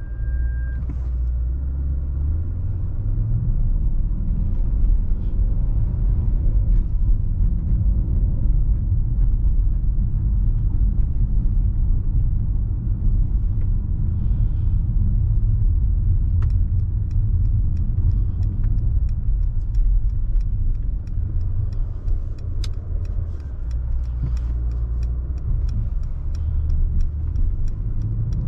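A Mercedes-AMG S63's twin-turbo V8 and the car rolling on the road, a deep steady rumble. A brief steady tone sounds in the first second, and from about halfway on there is a run of light ticks.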